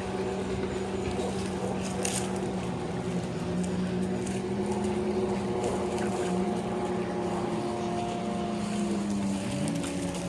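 A motor running steadily with a droning hum, its pitch shifting up and down a few times.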